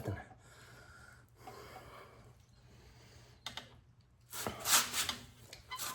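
A sharp, forceful exhale of effort about four and a half seconds in, preceded by faint rubbing and a click, as a stubborn rubber fuel line is twisted and pulled off a snowblower carburetor.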